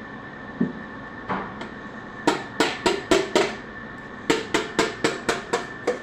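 Hammer blows in two quick runs of about four strikes a second, five and then seven, with a couple of lighter knocks before them, while an engine is being assembled.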